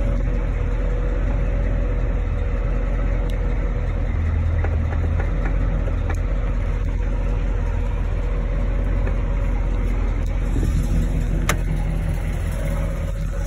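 1970 Chevrolet Impala's engine idling steadily, with a sharp click about three seconds in and another about eleven and a half seconds in.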